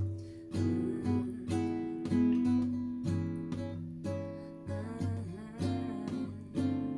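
Acoustic guitar playing a song's instrumental introduction, chords plucked and strummed in a steady rhythm.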